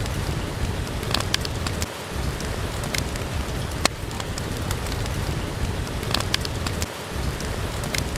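Steady rain with a low rumble, and sharp crackles and pops from a burning wood fire every second or so.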